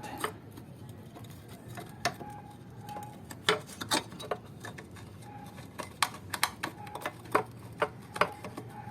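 Irregular sharp metallic clicks and clinks, some with a short ring, as the washer tank bracket and its bolts are handled and fitted under the hood.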